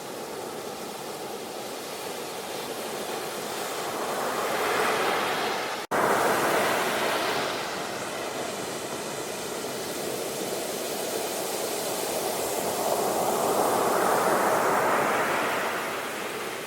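Sea waves breaking and washing on the shore, a steady rush that swells twice, about five and fourteen seconds in, then ebbs. The sound cuts out for an instant just before six seconds in.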